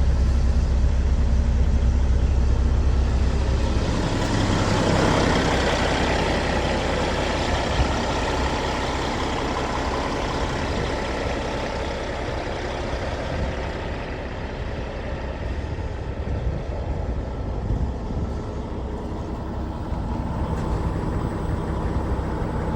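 Caterpillar 3406E straight-six diesel engine of a Kenworth W900 truck idling steadily. The deep rumble is strongest for the first four seconds. After that a hissier, fuller sound takes over, and the deep part grows stronger again near the end.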